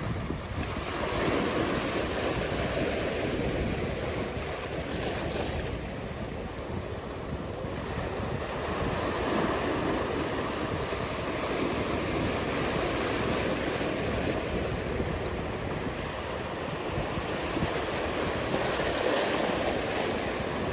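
Ocean surf: waves breaking and washing in, rising and falling every few seconds, with wind rumbling on the microphone.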